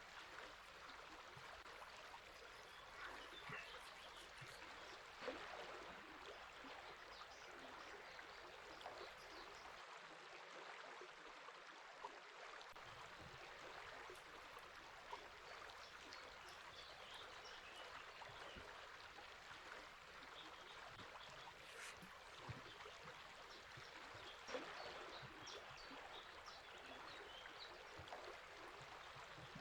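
Faint, steady rush of a flowing river, with scattered bird chirps here and there.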